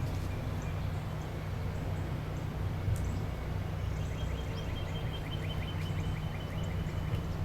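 Wetland outdoor ambience: a steady low rumble, with a rapid run of short high chirps, about four or five a second, starting a little after halfway.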